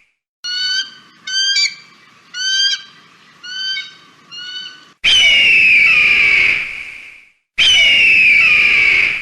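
Bird-of-prey calls: first a string of about five short, high piping calls, then two long, hoarse screams that slide downward in pitch, each lasting about two seconds.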